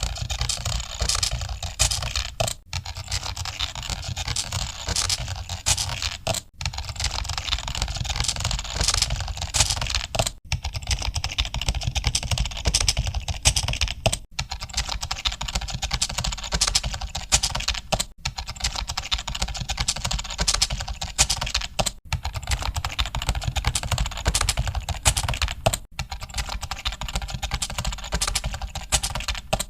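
Rapid typing on computer keyboards: a dense, unbroken clatter of keystrokes, with brief dips about every four seconds.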